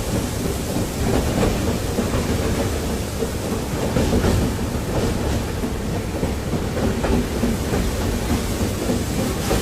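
Train running past with a steady rumble and the faint clatter of wheels over rail joints.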